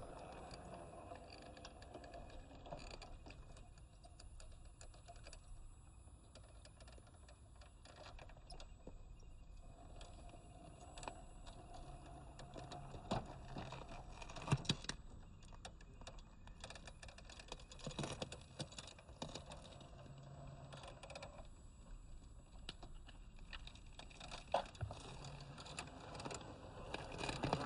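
1/10 scale RC crawler driving slowly over dirt and small rocks: tyres crunching and grit clicking throughout, a few sharper knocks, with the faint whine of its electric motor changing pitch now and then.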